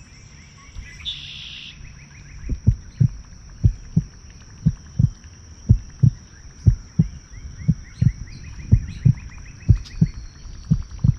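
A fishing reel being cranked during a lure retrieve, the handle turning with a steady rhythm of soft low thumps in pairs, about one pair a second, starting a couple of seconds in.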